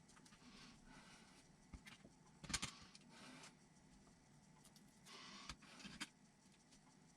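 Faint handling noises of small kit parts and tools on a workbench: light rustling with a few sharp clicks and taps, the loudest a quick cluster of clacks about two and a half seconds in and more around five to six seconds.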